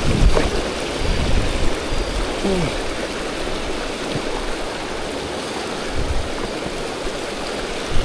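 River water rushing steadily, a continuous even rush.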